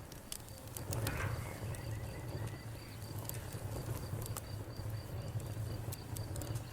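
Fire crackling: scattered sharp pops and snaps over a low, steady rumble of the flames, with a faint high, evenly pulsing chirp behind it.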